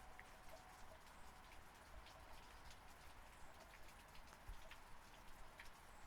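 Faint, steady rain, with many separate drops ticking close by over the wash of the downpour.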